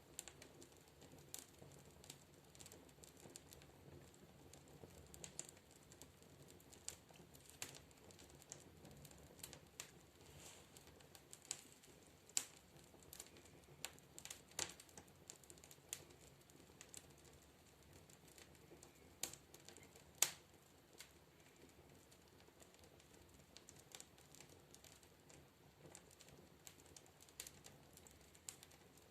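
Wood fire crackling in a fireplace stove: faint, irregular pops and snaps, with a few sharper cracks about halfway through.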